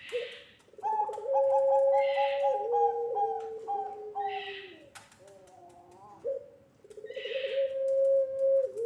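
Puter pelung dove cooing: two long drawn-out coos, each opening with a wavering trill and then held on a steady tone. A fainter, higher hissy rasp comes every two to three seconds.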